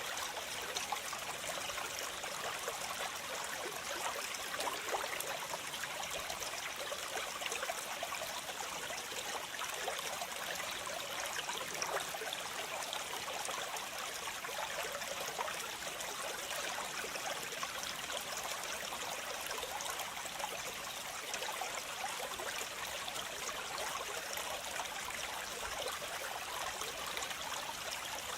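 Waterfall: steady rushing and splashing of falling water, mostly in the middle and upper range, with no change in level.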